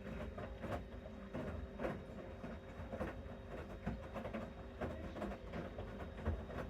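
Bosch Series 6 front-loading washing machine in the main wash of a mixed-load 60 programme with SpeedPerfect: the drum turns, laundry and water slosh in irregular swishes, over a steady motor hum.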